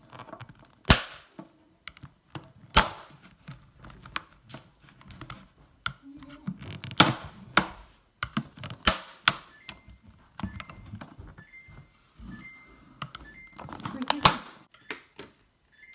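Plastic retaining tabs of a Samsung refrigerator door divider (mullion) being pried open with a putty knife: a series of sharp, irregularly spaced snaps and knocks as the clips pop apart.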